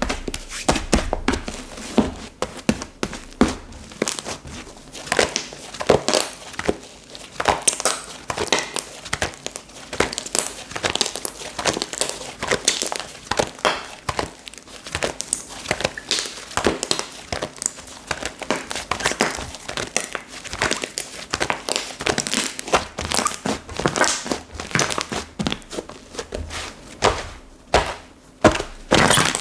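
Slime being squished, pressed and stretched by hand. It gives a continuous run of uneven sticky crackles, clicks and small pops.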